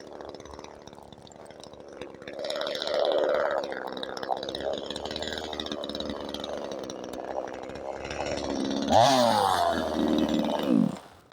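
DDE CS 250 two-stroke chainsaw running, revving up sharply about nine seconds in and falling back, then cutting off suddenly near the end.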